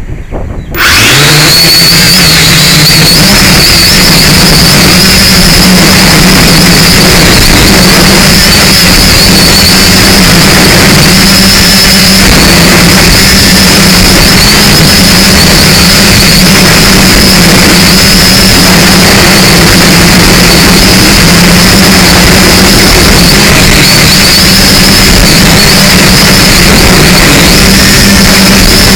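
Syma X5C quadcopter's small electric motors and propellers running in flight: a loud, steady buzz with a high wavering whine that starts up about a second in, mixed with heavy wind noise.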